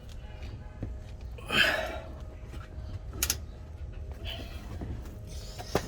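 Hand tools working on the truck's front suspension bolts: a short, loud scrape or clatter about a second and a half in, then a couple of sharp metallic clicks, over a low steady rumble.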